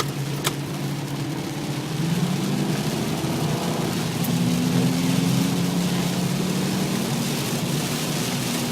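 Car engine heard from inside the cabin while driving, its hum rising in pitch about two seconds in and again about four seconds in, over a steady hiss of rain. A single sharp click about half a second in.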